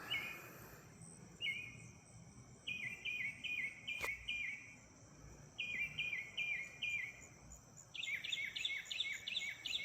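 A bird calling at night in runs of quick, downward-slurred notes, four to seven in a run at about three a second, with a few seconds between runs; a steady high insect trill continues underneath.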